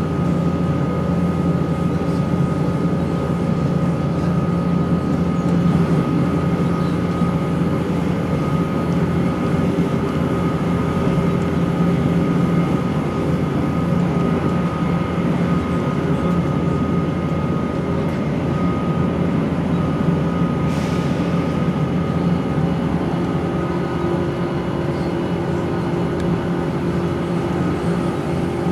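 Class 170 Turbostar diesel multiple unit heard from on board while running: a steady drone and rumble with a high, steady whine riding over it, which the uploader calls engine whine without being sure what causes it. A brief sharp click about three quarters of the way through.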